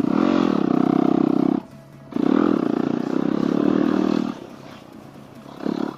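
Dirt bike engine revving in two long pulls of the throttle, the pitch wavering up and down, with a short break between them about a second and a half in; it drops to a quieter run with a couple of brief blips near the end.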